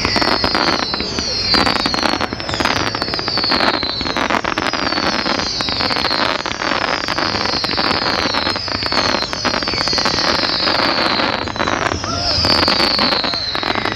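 Fireworks display: shots fire about once a second, each with a whistle that falls in pitch, amid sharp bangs and crackling bursts.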